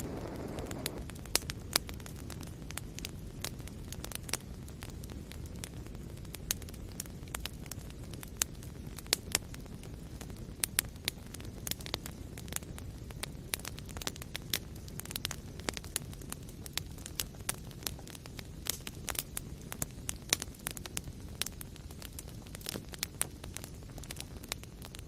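Wood fire burning steadily with a low rumble and frequent irregular sharp crackles and pops.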